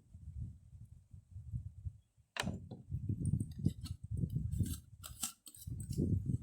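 Wind buffeting the microphone in low, pulsing gusts. From about two seconds in there is a quick run of clicks and light rattles as food is handled and seasoned.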